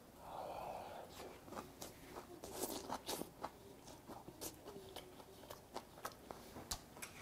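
A man chewing a mouthful of a pumpkin-leaf wrap with rice and soybean paste: faint, irregular wet clicks and small crunches of chewing, picked up close by a clip-on microphone.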